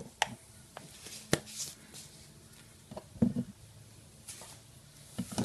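Scattered sharp clicks and knocks of hard objects being handled, with a louder cluster of knocks just after three seconds.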